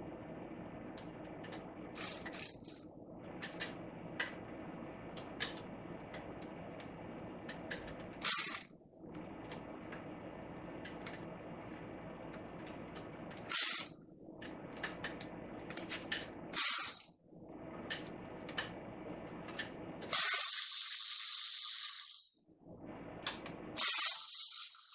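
Repeated short hissing blasts of pressurised spray, about six of them, the longest lasting about two seconds near the end, with scattered light metallic clicks and ticks from tool work in between.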